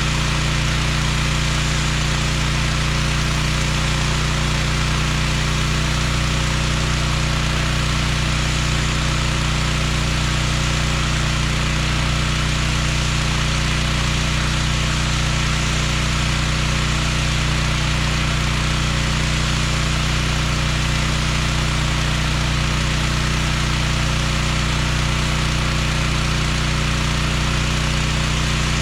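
Gas-engine pressure washer running steadily under load, with the even hiss of the water spray on the concrete over the engine.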